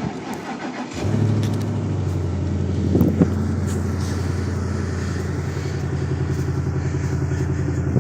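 Ford pickup truck's engine, remote-started from the key fob on a cold morning, idling steadily. It comes in suddenly and loud about a second in.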